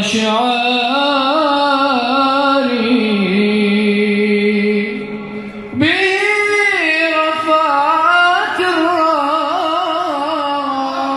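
A solo voice singing long, ornamented held notes of an Arabic song, wavering up and down in pitch. There are two long phrases, with a short break about five and a half seconds in.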